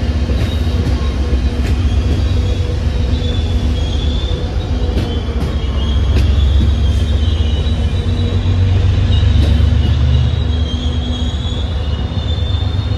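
MBTA commuter rail train of bi-level coaches rolling out of the station, with a steady low rumble and a high, wavering wheel squeal. Occasional sharp clicks of wheels passing over rail joints.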